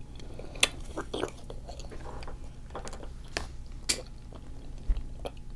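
Close-miked chewing, with scattered sharp wet mouth clicks and smacks.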